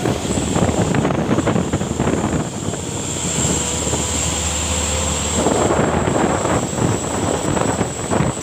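Vehicle on the move: steady road and engine rumble with wind buffeting the microphone, plus a steady low drone for a couple of seconds in the middle.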